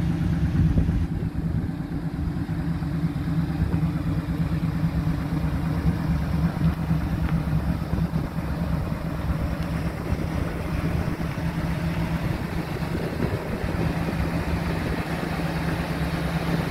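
1972 Ford Bronco's 302 V8 idling steadily, with a rapid even low pulse from the exhaust.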